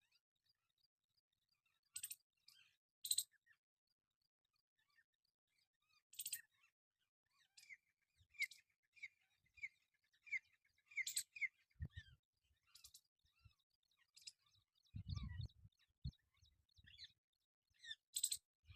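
Faint bird chirps: runs of short, quick notes sliding downward, with a sharp click now and then and a few soft low thumps in the second half.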